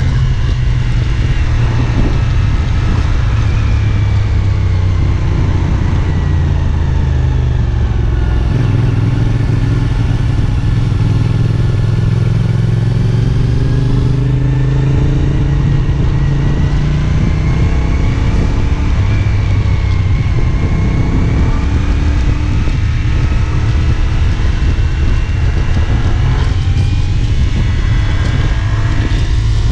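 CFMoto 450SR S parallel-twin engine running under way at a fairly steady speed, its pitch drifting slowly up and down and rising near the end.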